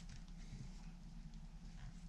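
Faint small taps and rustles of hand work on a workbench, over a steady low electrical hum.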